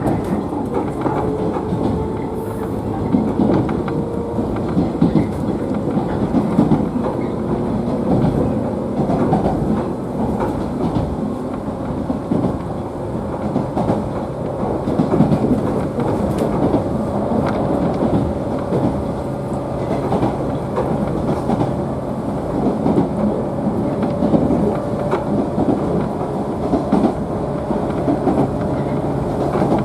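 Interior of a 113 series electric train's motor car running along the line: steady running noise with a faint whine from the traction motors and gearing, and wheels clacking over rail joints.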